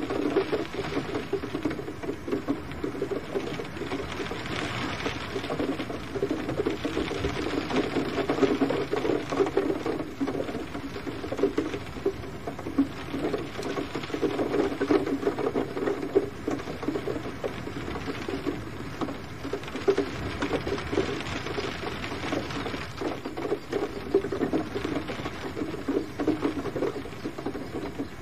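Gentle rain pattering steadily, a dense crackle of close raindrops that swells and eases slightly every few seconds.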